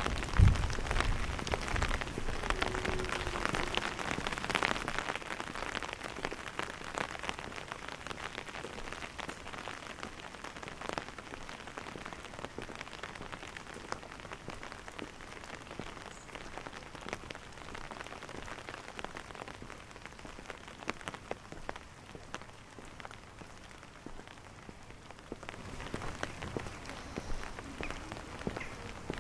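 Steady rain falling on wet cobblestone streets, with close drops ticking now and then; louder for the first few seconds, softer through the middle and picking up again near the end. A low thump comes about half a second in.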